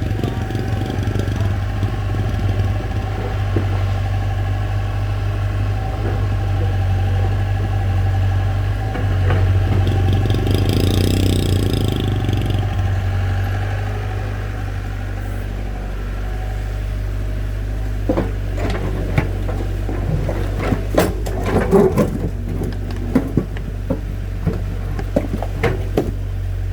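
A motor vehicle's engine running steadily at idle, louder for a few seconds about ten seconds in. From about eighteen seconds on, a string of sharp irregular knocks and clatters sounds over it.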